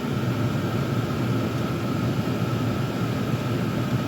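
Several Chinese diesel air heaters running together: a steady roar of their burners and blower fans, with a faint steady whine above it.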